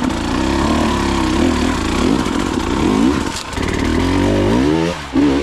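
Enduro dirt bike engine revving up and down under the rider's throttle, with a short dip and then a sharp climb in revs about four seconds in before it drops off near the end.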